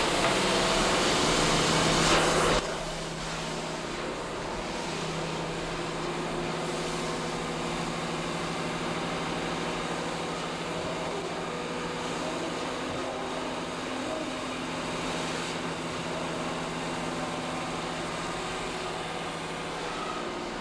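Loud steady rushing noise that cuts off abruptly about two and a half seconds in, then a quieter steady mechanical hum.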